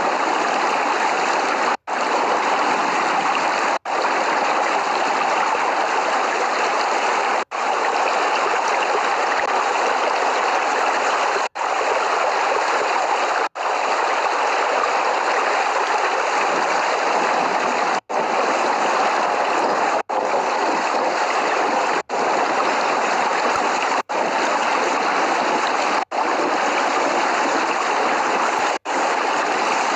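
Steady, even rushing rain noise with no thunder, broken by very brief silent gaps every two to four seconds, about eleven in all.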